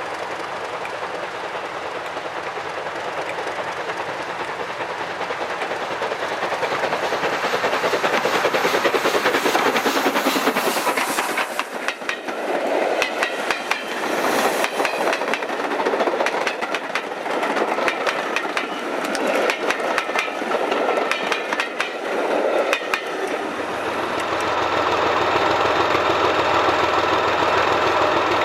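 A train passing close by, its wheels clicking in a steady rhythm over the rail joints. Near the end a steady low engine hum takes over.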